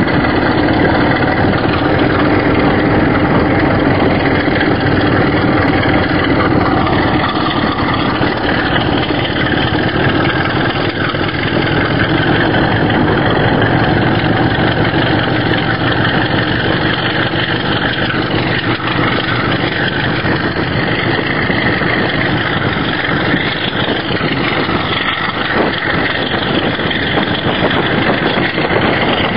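Class 33 diesel locomotive's Sulzer eight-cylinder engine running loud and steady.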